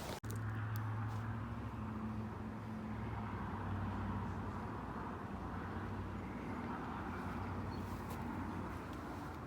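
A steady low mechanical hum, engine-like, with a faint hiss over it, after a brief cut-out right at the start.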